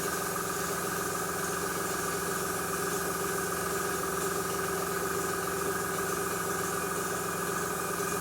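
Airbrush compressor running steadily with a constant hum, under the hiss of the airbrush spraying paint.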